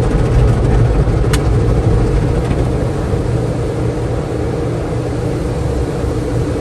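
A steady low mechanical rumble with a constant hum, and a single sharp click about a second and a half in.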